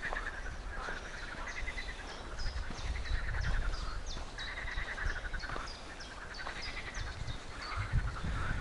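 Forest songbirds singing: one repeats a short, high, falling note about twice a second over another bird's lower warbling trill, with a low rumble underneath.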